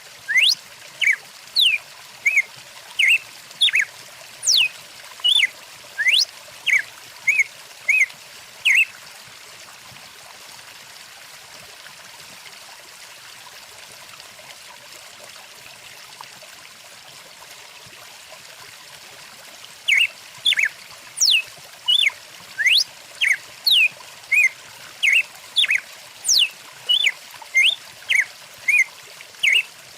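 Songbirds chirping in quick series of short whistled notes, some sweeping down in pitch, over the steady rush of a flowing stream. The birds stop for about ten seconds in the middle, leaving only the water, and start again near the end.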